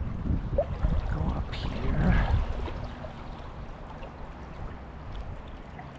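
River water rushing, with a heavier low rumble over the first two and a half seconds before it settles into a quieter, steady flow.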